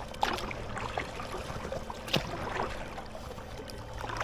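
Hiqmar eFin electric fin motor humming steadily as it drives an inflatable kayak, with water splashing and dripping from paddle strokes, the strongest splash about two seconds in.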